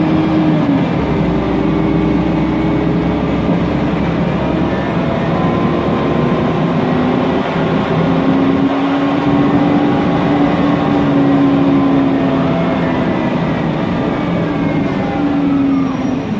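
Mercedes-Benz Conecto NGT city bus under way: the whine of its Voith DIWA automatic gearbox and CNG engine falls about half a second in, rises and falls again through the middle, and drops near the end as the bus slows. Under it runs a steady rush of noise, which the title calls loud fan noise.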